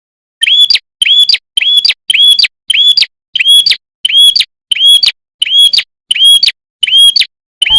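Prinia (prenjak) lure call: a short, sharp, high chirp repeated at an even pace, a little under two per second. It is a looped call used to provoke wild prinias into answering.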